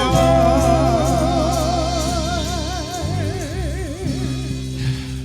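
Gospel song's final held note: a singer sustains one long note with a wide vibrato over sustained keyboard chords. The voice drops away near the end while the chords ring on, slowly fading.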